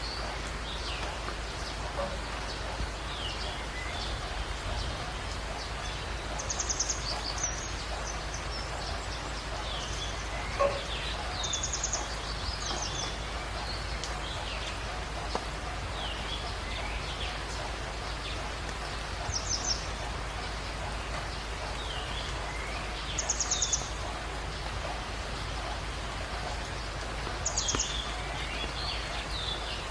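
Jungle birds calling at dawn over a steady background hiss. One bird gives a short, very high, rapid trill about five times, every four to five seconds, while other birds add brief chirps and whistles. There is a single short sharp sound about ten seconds in.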